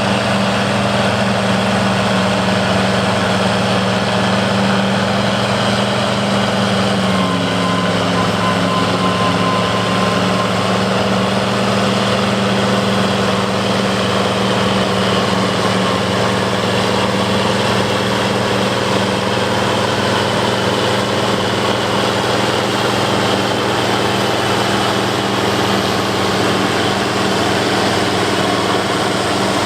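International 1086 tractor's turbocharged six-cylinder diesel running steadily under load, driving a PTO forage harvester chopping corn, with the harvester's mechanical whir over it. The engine's pitch drops slightly about seven seconds in.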